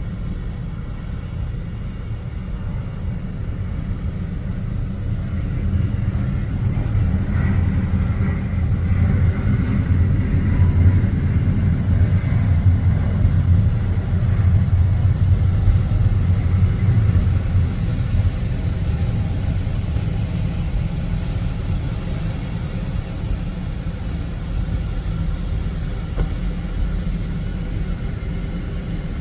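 Jet airliner engines rumbling as an aircraft passes, building up over several seconds to a peak near the middle and then slowly fading, with a faint turbine whine at the loudest point.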